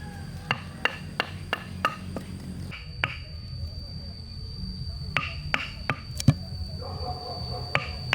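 Hand tool striking wood in short runs of sharp knocks, about three blows a second: a run of five, a single blow, then another run of four or five, then one more near the end.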